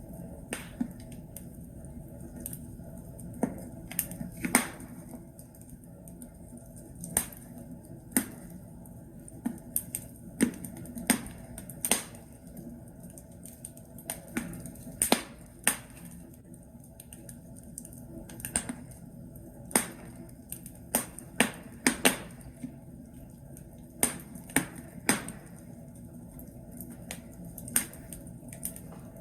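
Burning logs crackling in a fireplace: irregular sharp pops and snaps, sometimes in quick clusters, over a low steady hiss of the fire.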